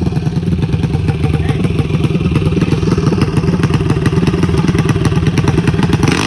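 Mini bike's small engine running steadily, its rapid, even firing pulses loud throughout.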